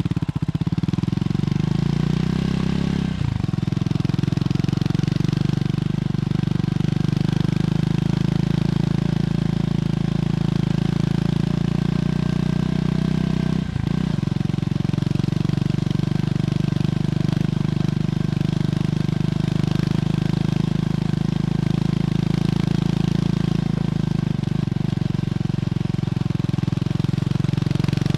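Triumph Scrambler 400X's single-cylinder engine running steadily through its stock exhaust. The engine note dips briefly twice, about three and fourteen seconds in.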